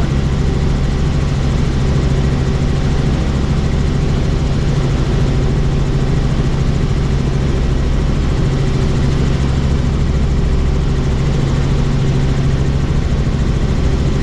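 Helicopter running steadily in flight, heard from on board: a constant low hum under an even rush of engine and rotor noise.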